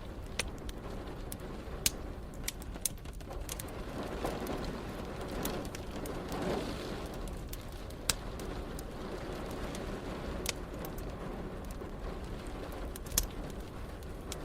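Wood fire crackling, with a few sharp pops scattered through, over a steady hiss of rain. A low rumble swells and fades about a third of the way in, like distant thunder.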